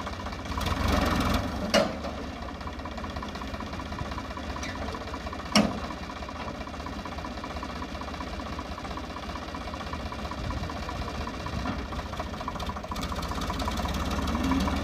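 Sonalika tractor's diesel engine running steadily, with two sharp knocks, one about two seconds in and a louder one near six seconds.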